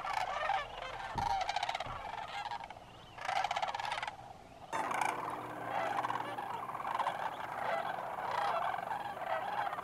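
A large flock of sandhill cranes calling, many rolling, rattling bugle calls overlapping into a continuous chorus.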